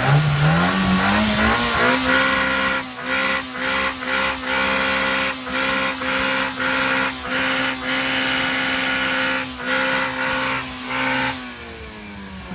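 Car engine revved up over about two seconds and then held at the rev limiter. Its steady high note cuts out briefly about every half second, with sharp pops from the exhaust at the cuts. The revs drop away about a second before the end.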